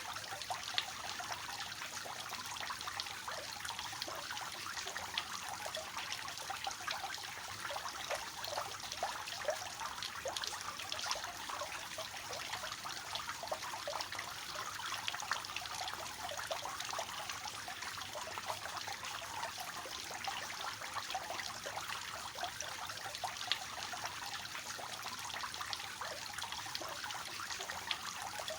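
Water falling and splashing steadily from a three-tiered cascading fountain, a soft trickling with many small splashes and no break.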